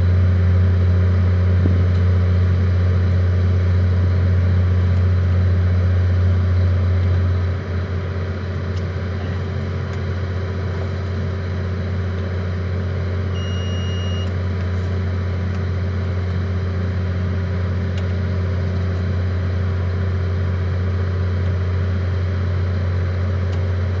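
A vehicle engine idling steadily with a deep, even hum that drops a little in level about seven and a half seconds in.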